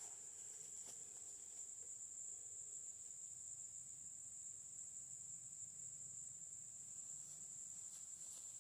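Crickets trilling in a faint, steady, high-pitched chorus.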